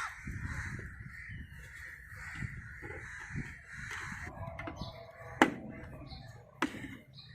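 Crows cawing in the background, with two sharp clicks about a second apart past the middle.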